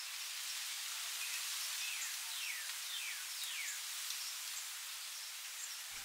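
Outdoor back-yard ambience: a steady high hiss, with a bird giving a run of short, falling whistled calls about two to four seconds in.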